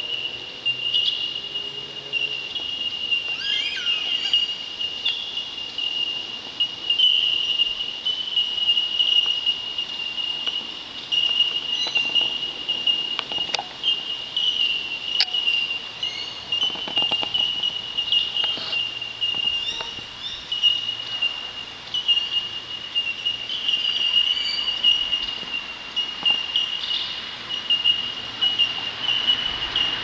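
A chorus of bell miners (bellbirds): many short ringing 'tink' notes on one high pitch, running together into a continuous ringing. A few other short bird chirps sound over it.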